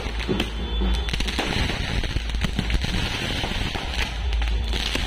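Fireworks going off at close range: a dense, unbroken run of sharp cracks and pops.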